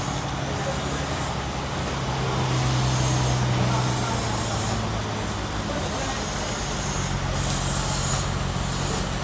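Band sawmill machinery running: a steady low hum under a hiss, the hum shifting slightly about four seconds in.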